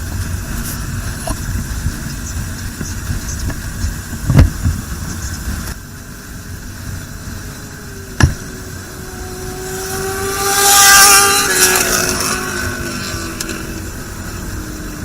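Road traffic rumbling steadily, with two sharp knocks, then a motor vehicle passing close: its engine note and tyre hiss swell about two-thirds of the way through and fall away.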